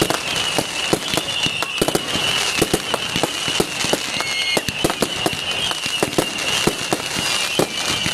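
Fireworks going off in a dense, irregular string of sharp cracks and pops, with a steady, wavering high whistle running under them.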